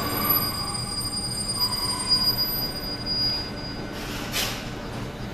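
Russian Railways passenger coaches rolling past on arrival, with thin high squeals from the wheels for the first few seconds over steady rolling noise. There is a brief louder rush about four seconds in.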